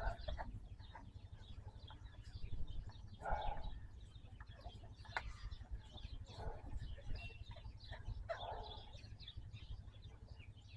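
Chickens clucking now and then in the background, a few short calls, with faint clicks and one sharper click about halfway through.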